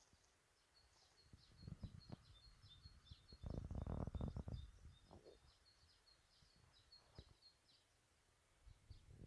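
Faint bird song: a rapid run of short, high chirps that stops about five seconds in. A brief burst of low rumbling noise comes about three and a half seconds in and is the loudest sound.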